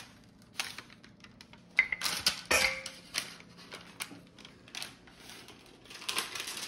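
Scattered knocks and clicks of a rolling pin working stiff dough on the counter, loudest in a short cluster about two seconds in.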